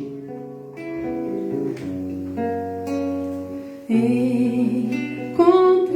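Acoustic guitar playing a song's introduction: single notes ringing one after another, then fuller, louder chords from about four seconds in.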